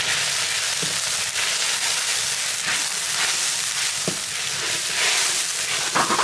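Mustard seed paste sizzling in hot oil in a large metal karahi, a steady hiss of frying, while a flat metal spatula stirs it and knocks against the pan a few times.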